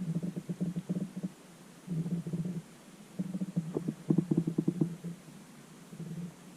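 Muffled, crunching rustle of footsteps through leaf litter while walking, coming in uneven spells with short pauses between them.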